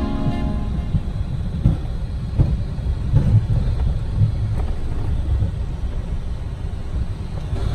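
Low, steady rumble of a Dassault Falcon 50 business jet taxiing, heard from inside, with a few soft bumps in the first few seconds.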